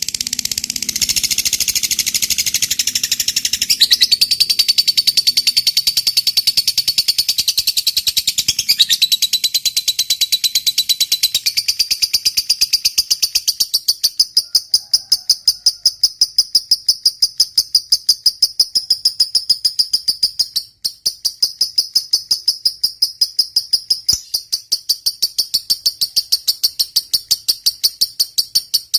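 Lovebird giving a long 'ngekek' chatter: a fast, unbroken run of shrill repeated notes, several a second. The run is fuller and harsher at first, then settles into a thinner, even note, with one brief break about two-thirds of the way through.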